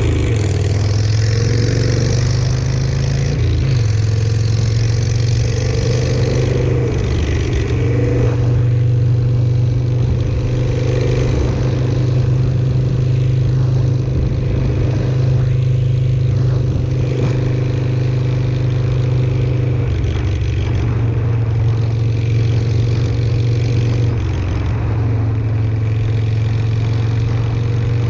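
Harley-Davidson Sportster 883's air-cooled V-twin running under way through shotgun pipes with Thunder Torque exhaust inserts. Engine pitch rises in the first couple of seconds, dips and comes back about seven seconds in, then mostly holds steady, easing briefly around 24 seconds in.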